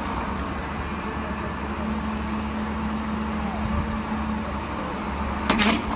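A vehicle engine running steadily, a low rumble with a faint steady hum. Near the end comes a brief harsh scraping noise.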